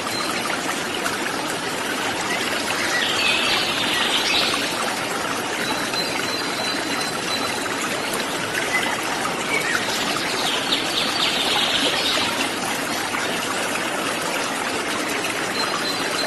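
Waterfall water running steadily, with birds chirping in two short bursts and a thin high whistle-like note that comes and goes.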